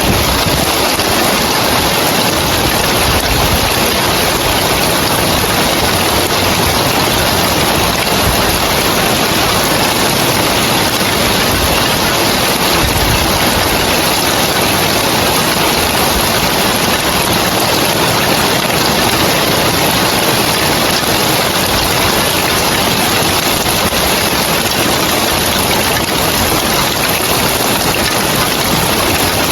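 Rain falling on roof tiles, a dense, even hiss that holds steady without pause.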